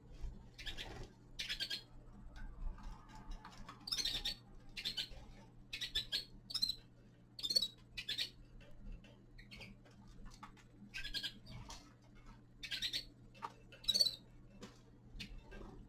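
Small finches giving short, irregular chirps and calls, about two dozen in quick succession, over a steady low electrical hum.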